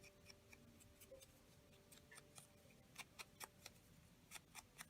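Faint scissors snipping paper: small, sharp clicks in irregular runs, bunched about three seconds in and again near the end, over near silence.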